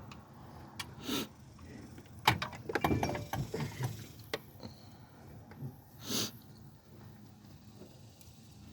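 Scattered clicks, knocks and scrapes of hands and tools working the serpentine belt back over the engine's pulleys and tensioner, busiest around three seconds in, with a short scrape about six seconds in.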